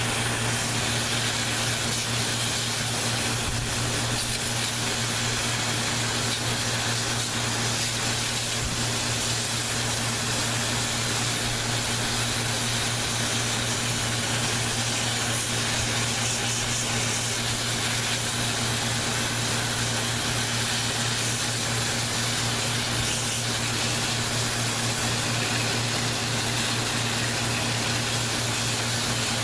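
Water spraying steadily from an electric pump sprayer, most likely onto the evaporator coil being cleaned: a constant hiss of spray over an unchanging low motor hum.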